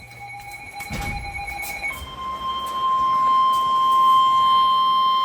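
NOAA Weather Radio warning alarm tone: a loud, steady single-pitch tone near 1 kHz starts about two seconds in and holds. It is the signal that a warning broadcast is about to follow. Before it, a fainter steady two-pitch tone and a couple of knocks can be heard.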